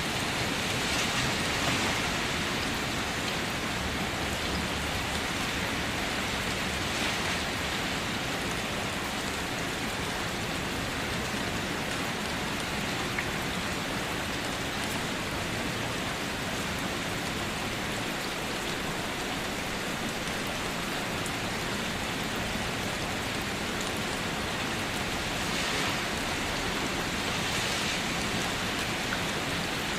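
Steady rainfall, a continuous even hiss with a few faint individual drop ticks and slight swells in intensity.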